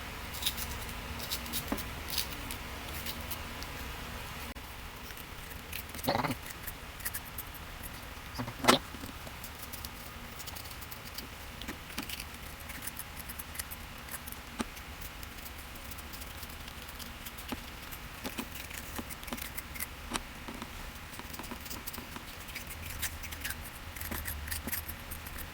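Scattered small clicks and scrapes of a spoon hollowing out cucumber pieces, with two louder knocks about six and nine seconds in, over a low steady hum.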